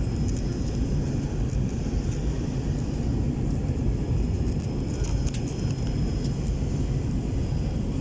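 Steady low rumble of an Airbus A321-231 with its IAE V2500 engines running, with a faint steady high whine and light scattered ticks.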